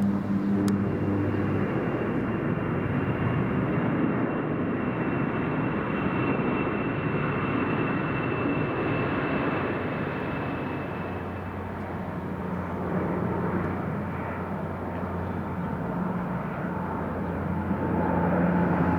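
Large aircraft flying low overhead on its landing approach. A steady rush of engine noise carries a thin high whine that fades away about ten seconds in. The noise swells again with a low hum near the end.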